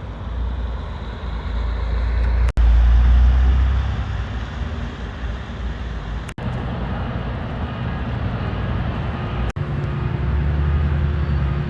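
Vehicle and traffic noise: a steady low rumble with a faint engine hum in the second half, cutting out abruptly three times.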